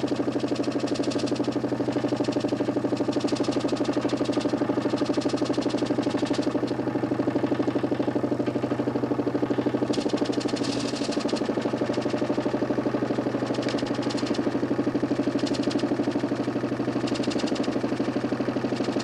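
DC motor spinning a large plywood Nipkow disc in a homemade mechanical television: a steady hum with a fast, even flutter.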